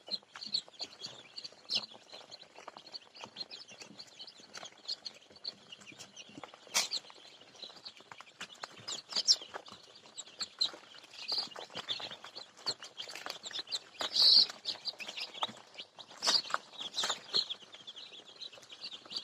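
A flock of chickens calling: many short, high chirps and clucks scattered irregularly, with a louder call burst about two-thirds of the way through.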